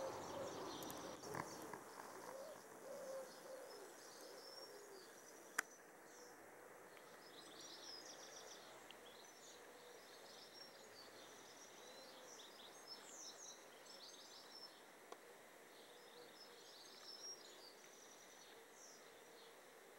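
Birds chirping and calling against a quiet outdoor background, with a single sharp click about five and a half seconds in.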